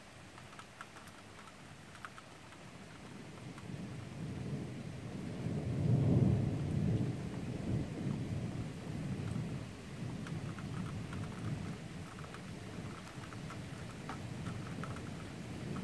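Rolling thunder that builds from about three seconds in, is loudest around six seconds and keeps rumbling, over light rain ticking.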